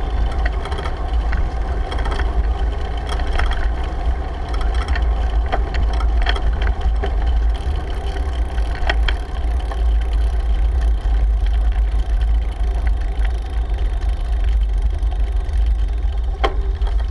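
Wind buffeting the microphone of a camera on a moving bicycle: a steady, loud low rumble, with bicycle tyre and road noise and a few scattered clicks.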